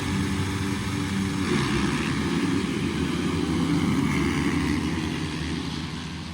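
Motocross dirt bike engines racing, a dense buzz that swells about a second and a half in and fades near the end.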